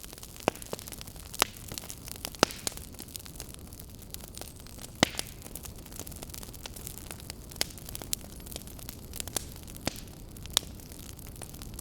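Fireplace fire crackling, with irregular sharp pops over a steady low hiss and rumble of the flames. The loudest pops come about one and a half, two and a half and five seconds in.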